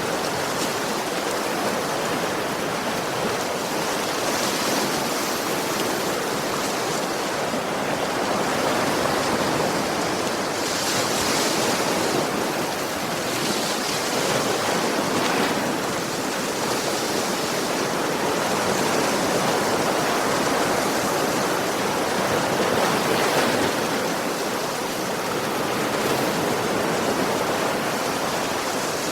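Ocean waves breaking and washing on a beach, a continuous hissing wash that swells and eases every few seconds.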